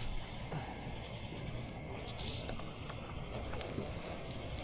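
Steady high-pitched drone of night insects, over a low outdoor rumble, with a short hiss about two seconds in and a few light clicks near the end.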